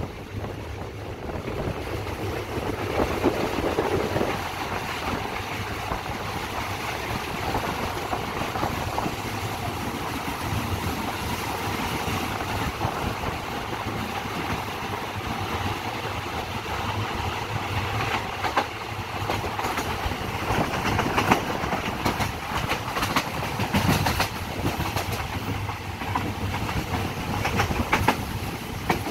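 Train running, heard from a carriage window: steady wheel-on-rail noise, with a few sharper clacks over rail joints in the second half.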